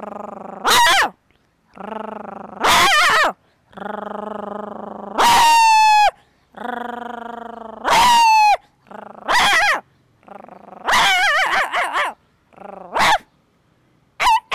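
A woman's vocal imitation of a puppy: a low growl, then a high yelp that falls in pitch, about four times over, followed by a quicker run of yelping barks.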